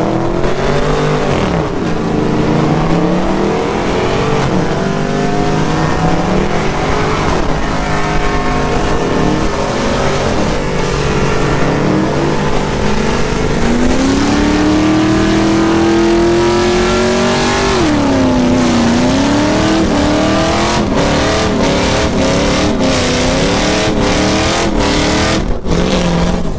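Several vehicle engines revving at once, their pitch repeatedly climbing and falling. About two-thirds of the way through, one engine is held at a rising pitch for a few seconds, then drops back sharply. Short sharp knocks come over the top near the end.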